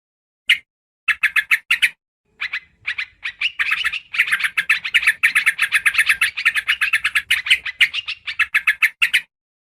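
Yellow-vented bulbul (trucukan) chattering: rapid runs of short, bright notes at about eight to ten a second. It comes in a few short bursts, then runs on almost without a break from about three and a half seconds until near the end.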